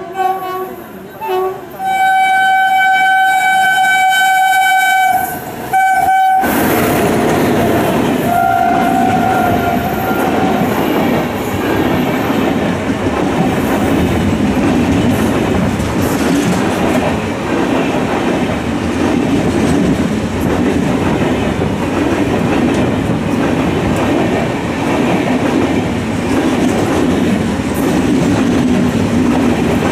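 A locomotive horn sounds two short toots, a long blast of about three seconds and one more short toot. Then the New Delhi–Mumbai Rajdhani Express passes close by at speed, a steady loud rumble of coaches and wheels on the rails. A fainter, lower horn note is heard briefly about eight seconds in.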